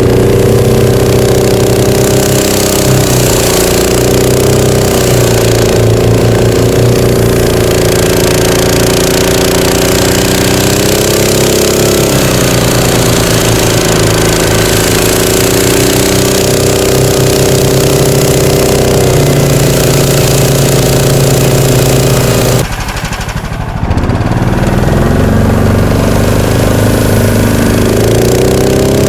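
Engine of a tracked motor pusher (snow dog) running hard under load, its revs rising and falling as the track churns through deep, loose snow with little grip. Near the end the revs drop off sharply for about a second, then climb again.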